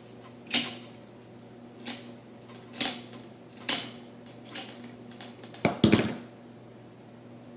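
Sharp clicks and taps of small parts and tools being handled at a workbench, roughly one a second, with a louder double clatter near the end, over a steady low electrical hum.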